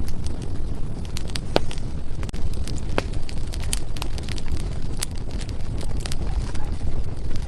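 Firewood burning in a fireplace: a steady low rumble of flames with frequent sharp crackles and pops at irregular intervals.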